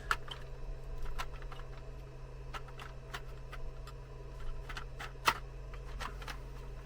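Scattered light clicks and taps of small plastic parts of a car instrument cluster being handled and fitted together, with one sharper, louder click about five seconds in, over a steady low electrical hum.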